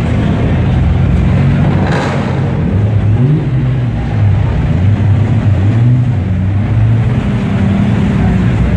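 Engines of modified Toyota Supras running at low speed as they crawl past close by: a steady low exhaust drone with small rises in pitch as the throttle is touched.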